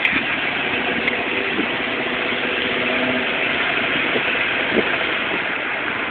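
Car engine and road noise heard from inside a moving vehicle: a steady, even rush with a faint engine hum under it.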